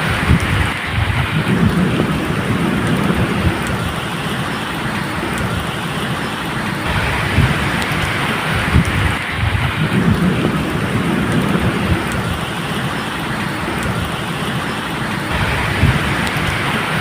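Steady medium rain with low rolls of thunder that swell and fade three times: near the start, around the middle and near the end.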